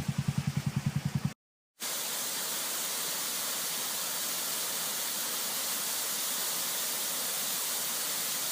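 A small motorbike engine idling with a quick, even pulse, cut off after about a second. After a short gap comes a steady, even hiss with no rhythm or pitch.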